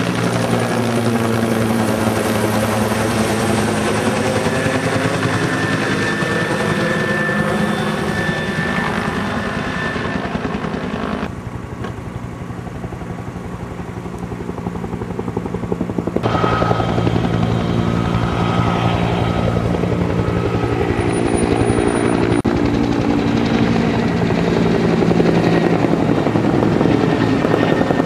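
Firefighting helicopter flying nearby, its rotor and engine a steady drone whose tone sweeps as it moves past. About eleven seconds in the sound turns duller and quieter, and about five seconds later it comes back louder.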